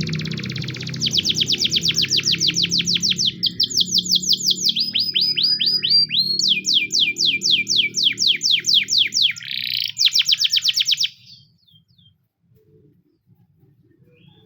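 Domestic canary singing rapid trains of falling whistled notes. Each phrase repeats many times a second before it switches to the next, and the song stops abruptly about eleven seconds in. Low background music runs under the song and fades shortly before it ends.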